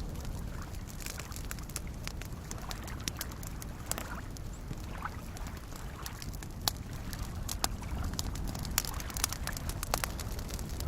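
Campfire crackling, with sharp scattered pops and snaps, over a steady low wash of small lake waves lapping.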